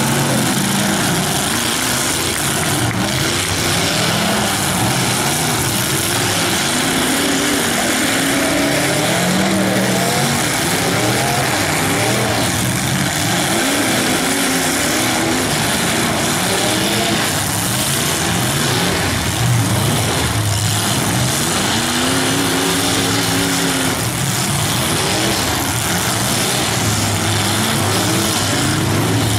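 Several demolition-derby stock cars' engines revving hard at once, their pitches rising and falling as the cars push and ram each other, with a few crashes of metal on metal.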